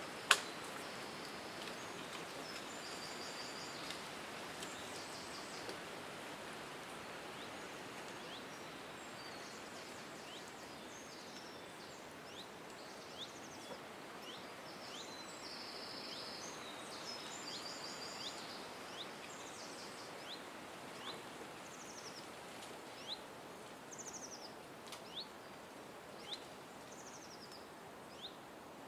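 Several songbirds calling: short, quick descending chirps and bursts of high trills, scattered through a steady background hiss. A single sharp click sounds just after the start.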